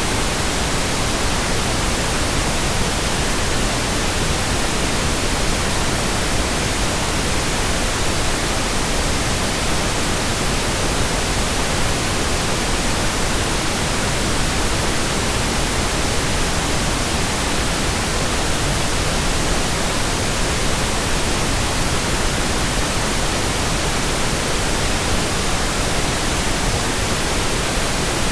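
Steady, even white noise with a constant hiss across the whole range, unchanging throughout.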